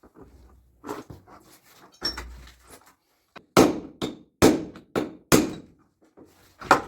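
A series of hard knocks, about five strong irregular blows in the last half, with weaker knocking and scraping before them.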